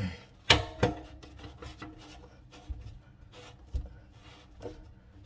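Kitchen faucet hardware being handled and hand-tightened under the sink: two sharp knocks about half a second in, then a few fainter clicks over light rubbing.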